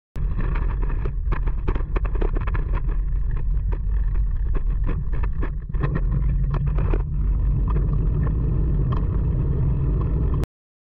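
Wind rumbling and buffeting on a phone microphone during a bike ride, with many sharp clicks and crackles over a steady low roar. It starts and cuts off abruptly.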